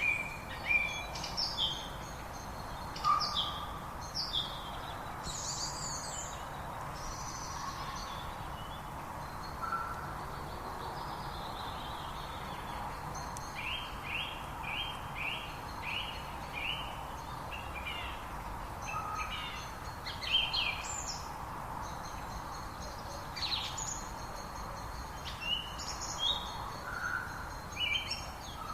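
Several songbirds singing and chirping with short, varied phrases, among them a run of quick repeated notes about halfway through, over a steady background noise.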